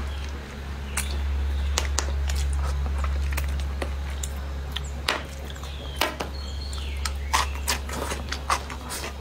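Close-miked eating sounds: chewing with a string of sharp mouth clicks and smacks, over a steady low hum.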